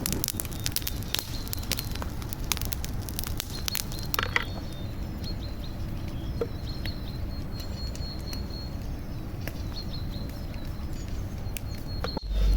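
Campfire crackling with sharp pops, thick for the first few seconds and scattered after, over a steady low rumble. A sudden loud low thump comes near the end.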